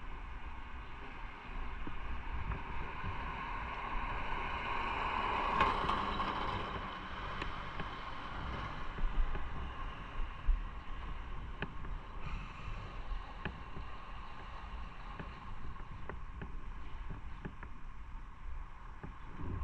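Motorcycle engine running under way, with wind rushing over the microphone; it swells briefly about six seconds in.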